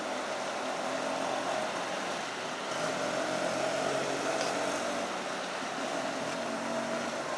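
Steady rain hiss with motor traffic on a wet road; a vehicle's engine grows louder for a couple of seconds from about three seconds in.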